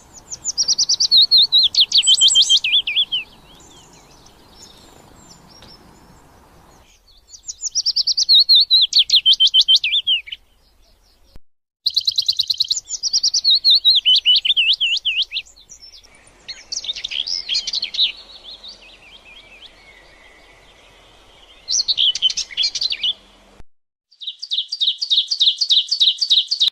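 Small songbirds chirping in fast trilled phrases, each two to three seconds long, repeated about six times with short gaps of faint outdoor hiss between them.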